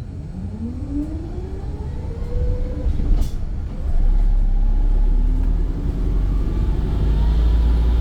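Volvo B5 bus pulling away: a whine climbs steadily in pitch over the first three seconds, then a second rising whine starts as the bus picks up speed, over a low rumble that gets louder about four seconds in. A single sharp knock comes about three seconds in.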